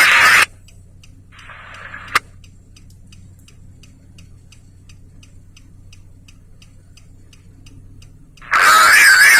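Steady ticking of a vehicle's turn-signal flasher, about three ticks a second, heard inside the cab. A railroad radio transmission cuts off about half a second in, a short hiss ends in a sharp click about two seconds in, and radio speech returns near the end.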